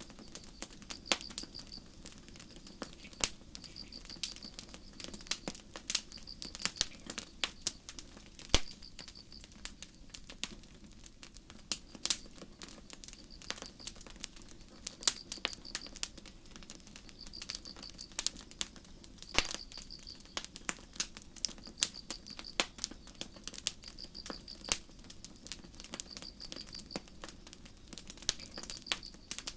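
Campfire crackling with irregular sharp pops over a faint steady background, while crickets chirp in short high-pitched pulses about once a second.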